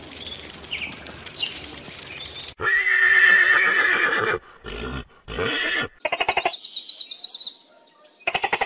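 A horse neighs in one long, loud whinny a little over two seconds in, followed by two shorter calls. Before it there is a steady low hiss. Near the end come rapid pulsed rattling trills with high chirps above them.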